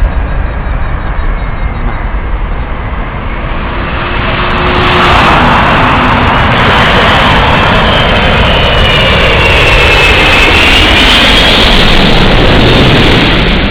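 Airbus A380's four jet engines as the airliner passes low overhead on landing approach: the roar swells about four seconds in and stays loud, with a high engine whine that dips and then rises again.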